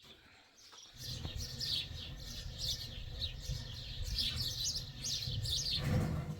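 Small birds chirping: a quick run of short, falling chirps that starts about a second in and stops shortly before the end, over a low rumble.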